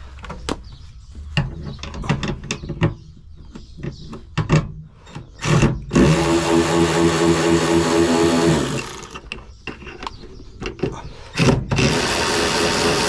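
Scattered clicks and knocks of tools and parts being handled, then a power drill running steadily for about three seconds, more clicks, and the drill running again near the end.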